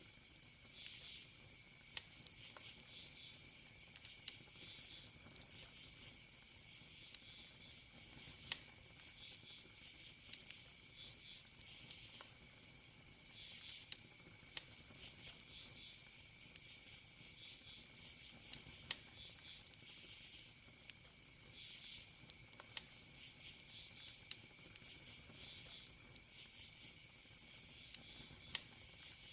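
Wood campfire crackling with scattered sharp pops, the loudest about 8 s in and near the end, over crickets: a steady high trill with pulsing chirps above it.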